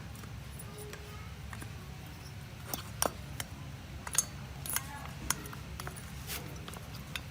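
Small metal parts and hand tools clinking and clicking as they are handled, in a run of separate sharp taps over a low steady hum.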